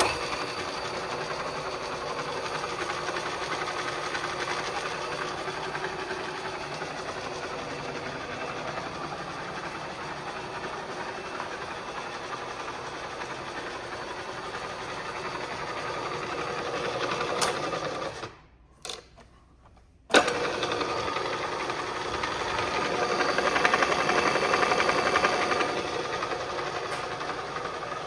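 Bridgeport vertical milling machine's three-phase spindle motor running steadily. It cuts out about eighteen seconds in, then starts again with a sharp click two seconds later and runs a little louder for a few seconds.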